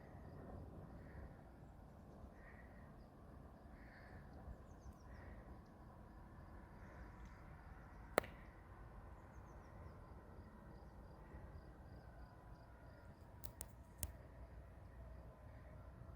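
Faint outdoor ambience: a low wind rumble with a faint call repeated about every second and a half for the first six seconds, and a thin insect-like trill. There is a single sharp click about eight seconds in, and two smaller ones near the end.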